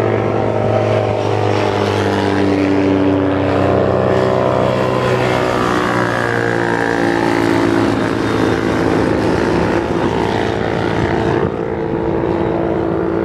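Motorcycle engines running as a group of bikes rides past, several engines at once with pitches that drift slowly up and down; the sound drops slightly near the end.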